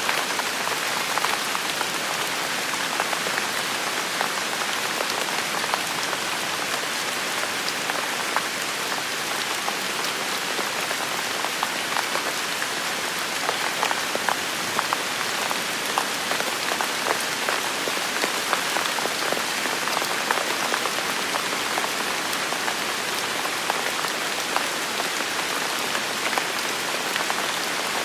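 Steady rain falling on a hard surface, an even hiss dotted with the sharp ticks of individual drops.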